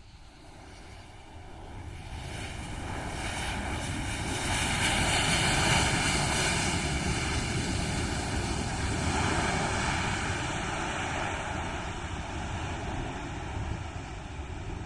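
Airbus A320-family jet airliner's engines coming in to land: a rushing roar with a steady high whine that grows louder over the first five or six seconds as it passes close, then slowly eases off.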